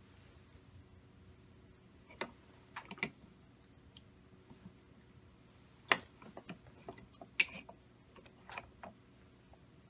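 Irregular sharp clicks and taps of small engine parts and tools being handled while the valves of a model air engine are worked on, the loudest two about six and seven and a half seconds in, over a faint steady hum.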